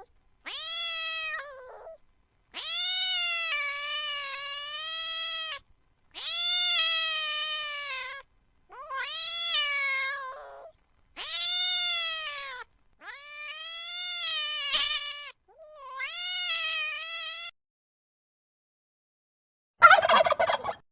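A domestic cat meowing seven times in long, drawn-out calls, each rising and then falling in pitch. After a short pause near the end, a turkey gobbles briefly.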